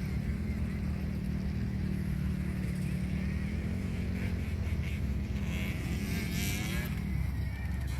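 A motor vehicle engine running at a steady speed, a low even hum that holds its pitch, dipping slightly late on.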